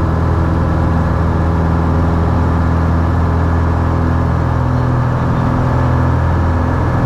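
Cessna 172H's Continental O-300 six-cylinder piston engine and propeller running at full takeoff power: a loud, steady, even drone during the takeoff roll.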